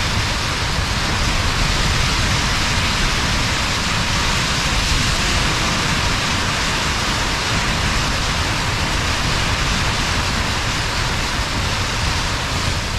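Storm wind and driven snow battering a tent's flysheet, heard from inside the tent as a loud, steady rush with a gusty low rumble.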